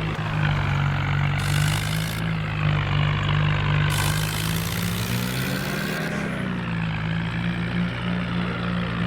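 Tractor diesel engine running steadily, its note dipping slightly about six seconds in and then rising again.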